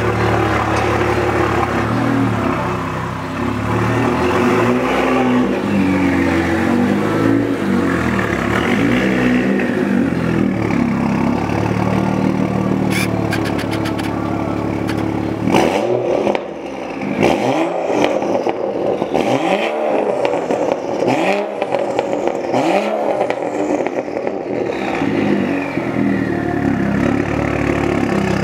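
BMW 135is turbocharged inline-six running through a custom quad-tip exhaust. It runs steadily for the first half, then is blipped in about six quick revs in a row from around the middle, with crackles and pops from the exhaust as each rev falls away.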